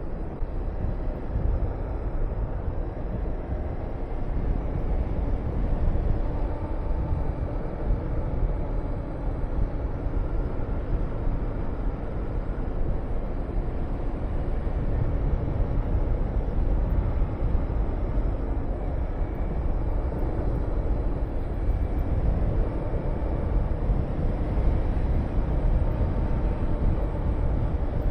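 Honda VTR250's 250 cc V-twin engine running under way, its pitch drifting up and down with the throttle, under a heavy rush of wind buffeting the microphone.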